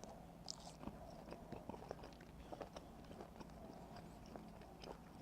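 Faint chewing of smoked pork belly, with small wet clicks and ticks of a mouth eating, at an irregular pace.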